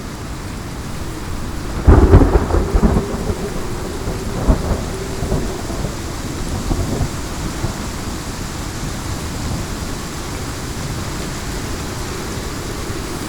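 A thunderclap in a steady heavy rainstorm: a sudden loud crack about two seconds in, then rumbling that dies away over the next few seconds, over constant rain.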